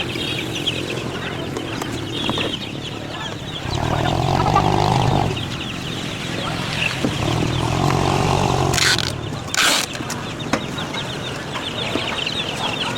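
Many chickens clucking and calling together in rapid, overlapping short calls, with two louder, longer sounds around four and eight seconds in and two short sharp noises near nine and ten seconds.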